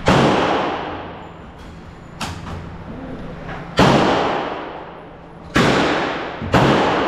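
Gunshots on a shooting range: four loud shots at uneven spacing, each ringing on and dying away over about a second, with a fainter shot about two seconds in.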